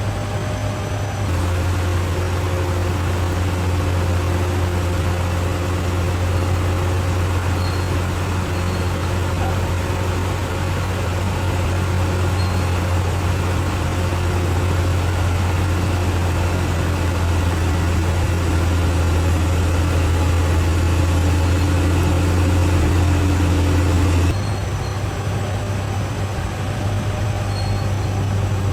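Bulldozer's diesel engine running steadily with a deep drone; its tone changes abruptly and it gets slightly quieter about 24 seconds in.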